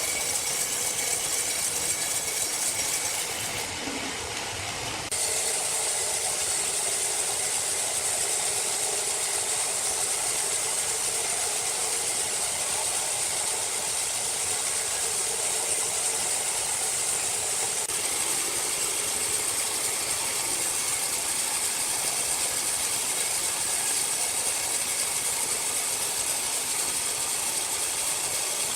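Sawmill machinery running steadily, with a strong high hiss over a lower mechanical noise. About four seconds in it drops briefly to a quieter, duller sound, then comes back suddenly.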